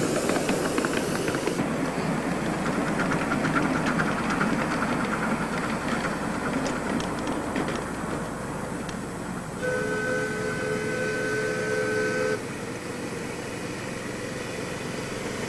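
Ride-on miniature railway train running with a rumbling rattle, then a steady two-note signal sounds for about three seconds near the middle and stops sharply.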